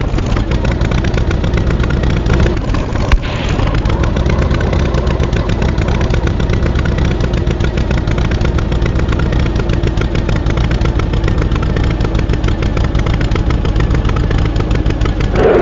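Tractor engine running steadily with rapid, even firing pulses, and one sharp knock about three seconds in.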